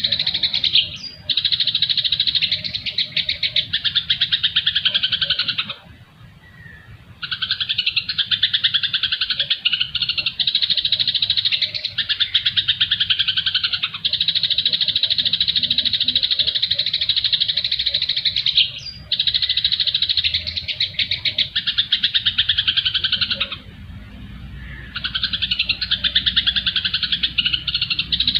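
Recorded songbird chatter: fast, unbroken twittering in long runs of several seconds, with two short breaks, from a bird-song training track of cucak jenggot, fighting sparrows and siri-siri.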